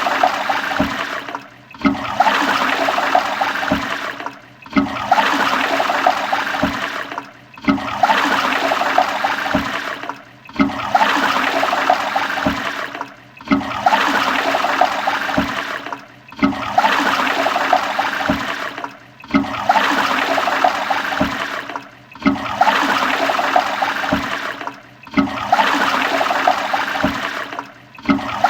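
Toilet flushing with rushing, gurgling water. The same short flush repeats about every three seconds: each starts sharply and fades, with a brief silent gap before the next.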